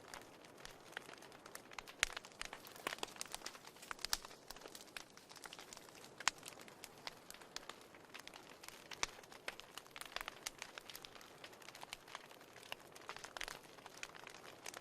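Wood fire crackling in a fireplace: irregular sharp snaps and pops over a soft steady hiss, a few louder pops standing out.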